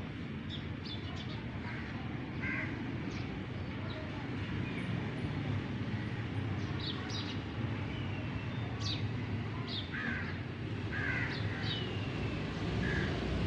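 Birds calling outdoors: short, scattered high calls over a steady low rumble.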